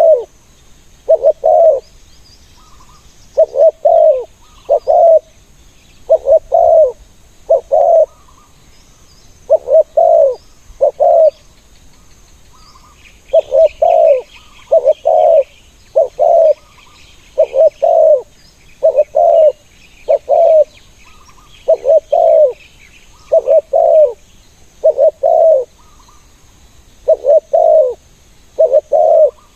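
Spotted doves cooing: short phrases of two or three low coos repeated every second or two, steady through the stretch. Faint high chirping of small birds runs underneath about halfway in.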